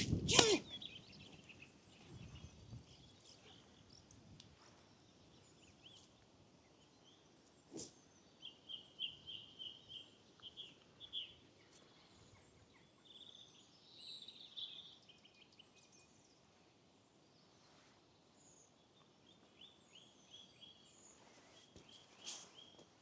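Small birds singing faintly in short runs of quick, repeated high notes, with quiet gaps between the runs; a single sharp click about eight seconds in.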